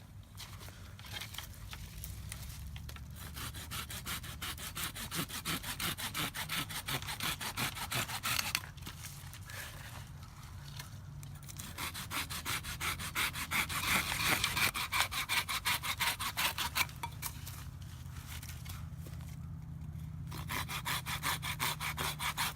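Quick, rhythmic rasping strokes of a hand tool working against wood or earth, in runs broken by short pauses about a third, half and seven-eighths of the way through.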